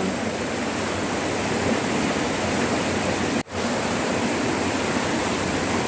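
Strong, fast-flowing river water rushing in a steady roar of noise, with a momentary cut-out about three and a half seconds in.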